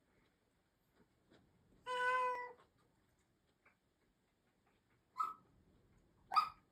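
Russian Blue cat giving one steady meow of about half a second about two seconds in, then two short, chirp-like calls near the end.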